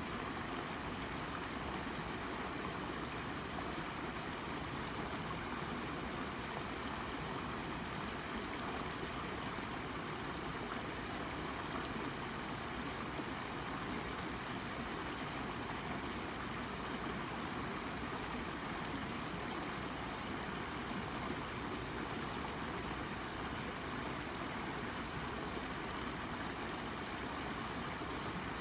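Shallow brook babbling steadily over and around a rock, an even, unbroken rush of water.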